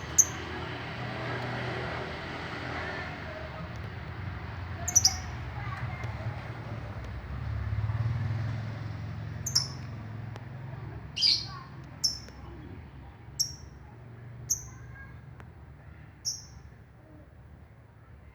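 A pet songbird giving short, sharp single chirps that each drop quickly in pitch, about eight of them at irregular intervals of one to several seconds. A steady low rumble runs underneath.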